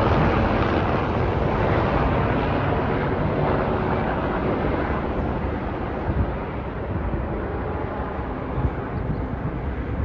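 Rotor and engine noise from a formation of military helicopters, fading gradually as they fly away, with wind on the microphone.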